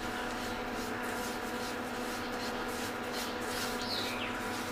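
Semolina frying in hot ghee in a non-stick kadhai: a soft, steady sizzle with a steady hum underneath, and a spatula stirring the semolina near the end.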